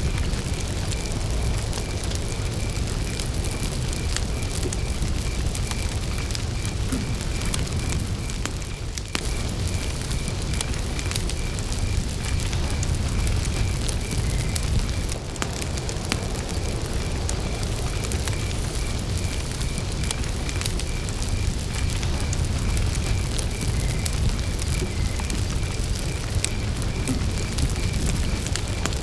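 Wood campfire burning, with a steady low rumble of flame and many small crackles and pops. A cricket chirps in an even, unbroken rhythm over the fire.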